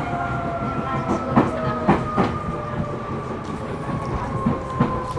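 Interior running sound of a Seibu New 2000 series electric train: steady wheel and rail rumble under a motor whine that slides slowly down in pitch as the train slows, with a handful of sharp knocks as the wheels cross rail joints.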